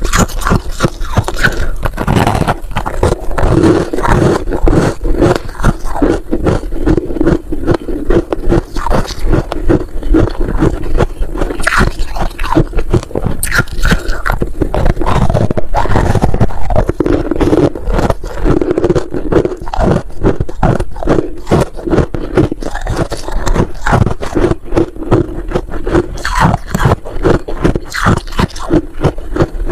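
Freezer frost being scraped, bitten and chewed close to the microphone: a dense, unbroken run of crisp crunches and scrapes.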